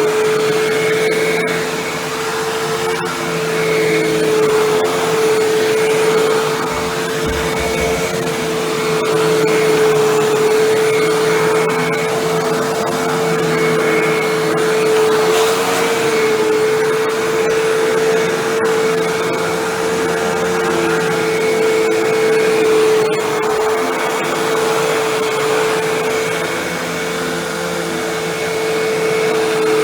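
Hoover WindTunnel Bagless Twin Chamber upright vacuum cleaner running steadily while vacuuming, its motor giving a steady whine over a rush of air.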